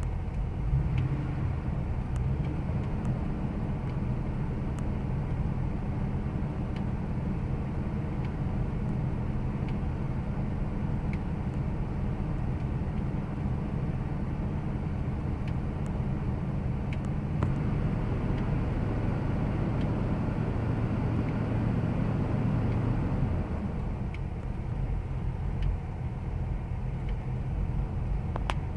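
2000 Ford Expedition's 5.4-litre V8 idling steadily, with the rough idle that is the vehicle's complaint. It gets a little quieter about 23 seconds in.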